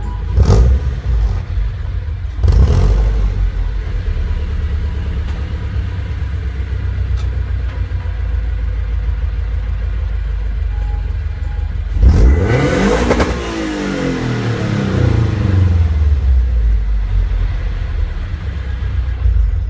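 Toyota GT86's flat-four boxer engine breathing through a Tomei unequal-length header and Remus exhaust, idling with a low boxer rumble. It takes two quick throttle blips near the start, and about twelve seconds in a rev that climbs sharply and falls back slowly to idle.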